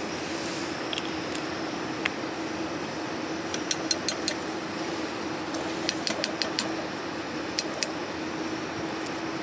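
Steady hiss of rain with a low steady hum, broken by scattered sharp ticks and crackles in small clusters.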